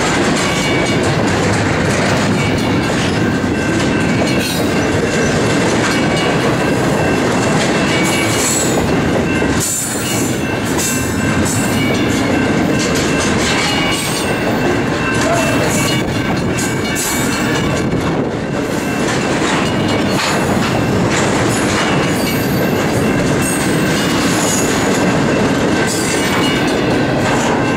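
Double-stack intermodal container train rolling past: a loud, steady rumble and rattle of steel wheels on rail, with repeated clicking over the rail joints and a faint high wheel squeal.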